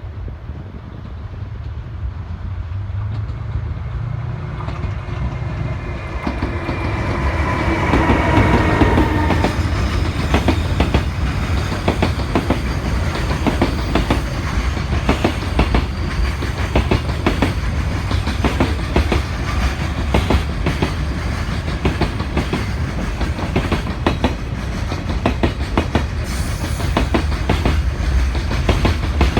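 A freight train comes in with a rising rumble and a brief tone that falls slightly in pitch as the locomotive passes. A long string of wagons then runs by, wheels clicking steadily over rail joints above a constant low rumble.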